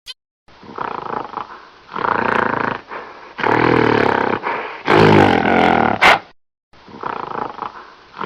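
A large wild animal roaring and growling in a series of separate calls with short silent gaps between them, the loudest in the middle.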